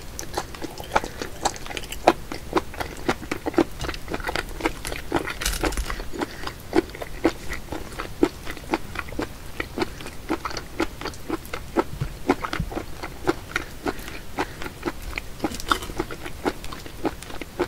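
Close-up wet chewing of raw live octopus: a steady run of short, sticky mouth clicks and smacks, about two a second.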